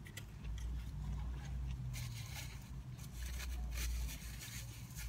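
Close-up chewing of a mouthful of bacon double cheeseburger, with scattered crinkles from the burger's paper wrapper over a steady low hum.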